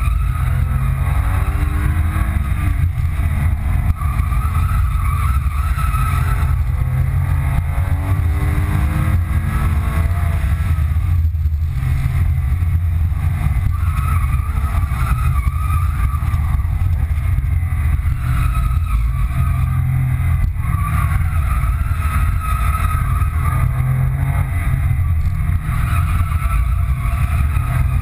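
2005 Porsche 997 Carrera 2's 3.6-litre flat-six engine heard from inside the cabin while lapping a racetrack. Its pitch climbs under acceleration and falls back again and again, over a loud, steady low drone.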